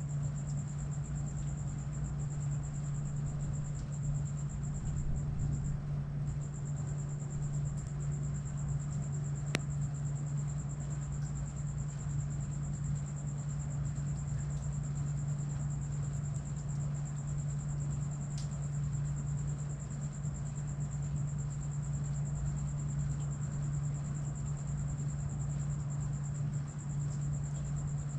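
Crickets trilling steadily at a high pitch over a constant low hum.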